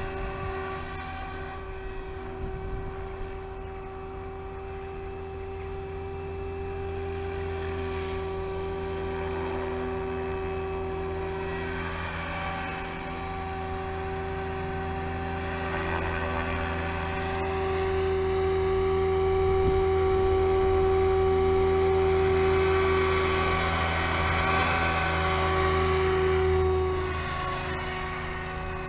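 SAB Goblin 500 battery-powered RC helicopter in flight: a steady motor and rotor whine that grows louder through the second half, wavers in pitch briefly, then falls back near the end.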